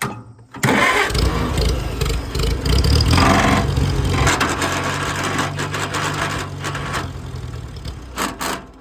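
Farmall A tractor's starter cranking the engine with a loud grinding for about eight seconds, cutting off near the end without the engine catching. The owner suspects a fuel problem in the carburetor, a sticking float or debris.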